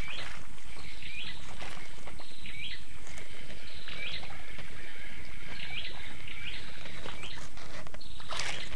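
A bird calling over and over, roughly once a second, each call a short high note ending in a quick hooked glide, over a steady background hiss.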